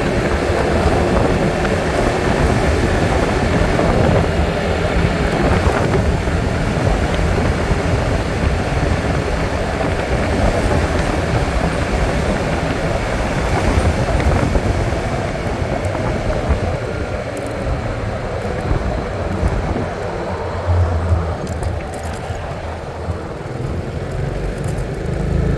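A vehicle driving along: steady engine and road noise, a little quieter in the second half.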